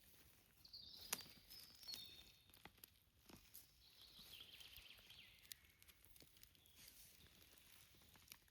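Faint forest ambience: scattered sharp clicks and crackles, like steps on twigs and leaf litter, under a few short, high bird calls.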